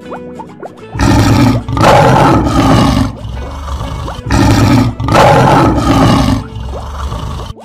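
Cartoon lion roar sound effect, played twice, each roar about two seconds long and loud.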